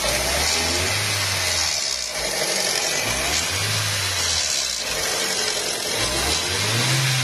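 Ford Ka Zetec Rocam engine blipped from idle three times, each rev rising and falling back. It is being revved to bring out a timing-chain noise, which the mechanic puts down to the hydraulic chain tensioner no longer holding oil pressure.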